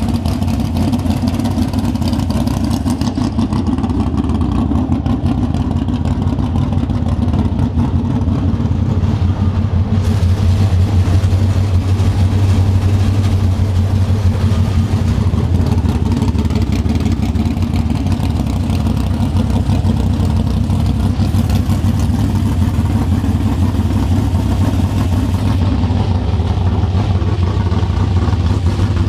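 Small-block Chevy V8 (355 cu in, solid-lifter flat-tappet drag cam, Holley carburetor) idling steadily and loudly.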